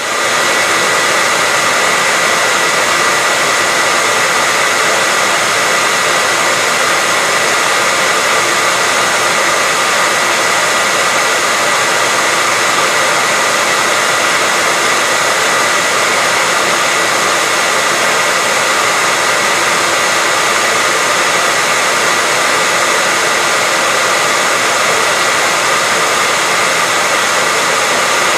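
Hair dryer running steadily: an even rush of blown air with a thin, steady whine on top.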